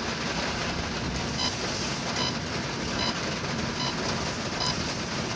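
A car ploughing through floodwater, heard from inside the cabin as a steady rushing noise. From about a second and a half in, a faint electronic beep repeats roughly every 0.8 seconds.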